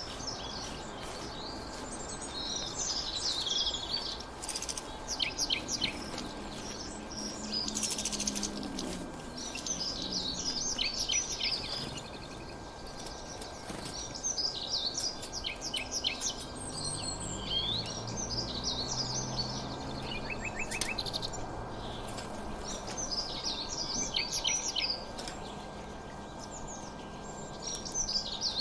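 Several small songbirds chirping and singing in quick trills and twitters, one call after another, over a steady background hiss.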